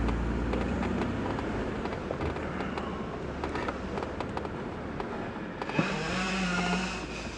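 Jeep engine running at low revs while crawling over rock, a steady low rumble with scattered clicks and knocks.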